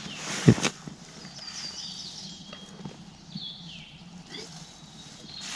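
Songbirds singing: a quick run of repeated high chirps followed by a few short down-slurred whistles. A brief rustle or knock near the start is the loudest sound.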